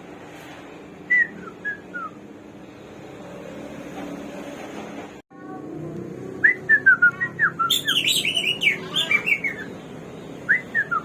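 Samyong songbird (black-throated laughingthrush) singing in loud whistled phrases: a short run of falling notes about a second in, then a long fast phrase of whistled notes about halfway through that turns harsh in the middle, and another phrase starting near the end.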